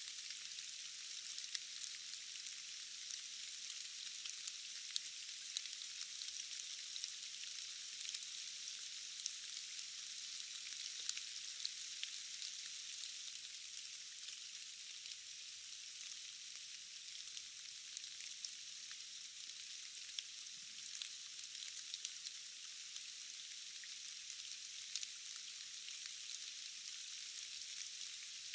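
Steady rain falling in a forest: an even, high hiss with scattered sharper drop ticks.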